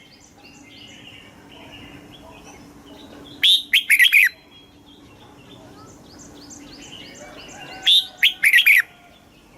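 Red-whiskered bulbul singing two short, loud phrases of quick whistled notes, about 3.5 seconds in and again about 8 seconds in, with fainter chirping in between. This is song used to train caged bulbuls or to rouse them to sing.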